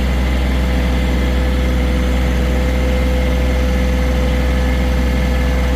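John Deere 1023E compact tractor's three-cylinder diesel engine running steadily, a low drone with a steady whine above it.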